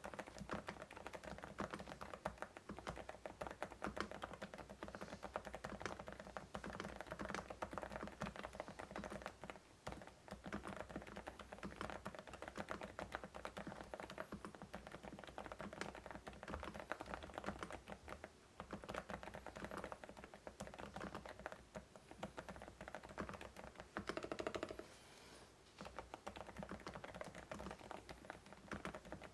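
Continuous fast typing on a COX CK88 mechanical keyboard with Deep Sea switches, key after key clacking in a dense stream. A brief louder flurry comes about three-quarters of the way through.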